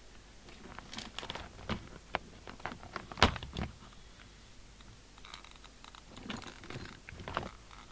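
Irregular clicks, taps and knocks of an open CB radio and its parts being handled on a workbench, the loudest knock about three seconds in, followed by softer clicks and rustling.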